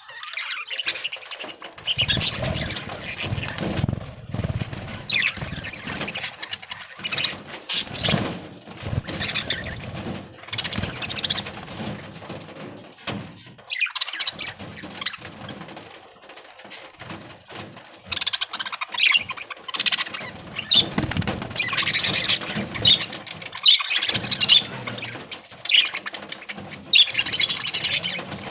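A flock of budgerigars chattering and chirping in a dense, irregular stream of short high calls, with bursts of wing fluttering.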